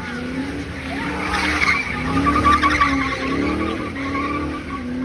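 A car's engine revving up and down while its tires squeal in a burnout or spin, the squeal loudest about one and a half to three seconds in.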